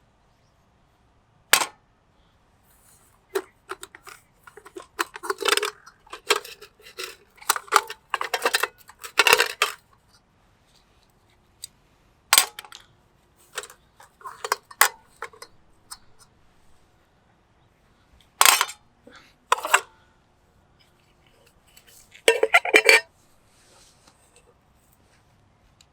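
Trangia aluminium camp cookware being handled and fitted together: metal pieces clink, knock and clatter in irregular bursts. The clatter is busiest in the first third, followed by a few single clinks and a short rattle near the end.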